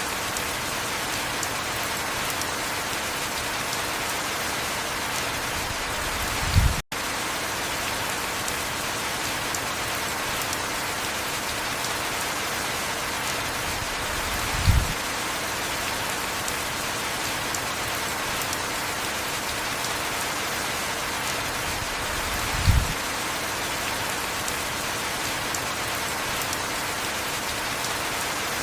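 Heavy, steady rain. A dull low thump comes through three times, about every eight seconds, and just after the second thump the sound drops out for an instant.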